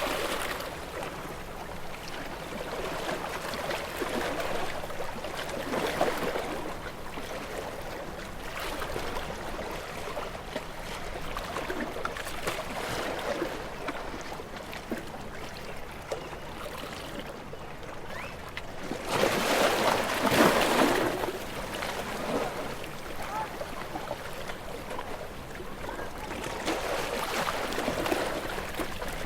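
Ocean waves washing in slow surges that rise and fall, the loudest about two-thirds of the way through.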